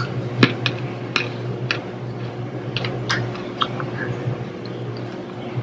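Close-up chewing of a raw green chili pepper: irregular small crunches and wet mouth clicks over a steady low hum.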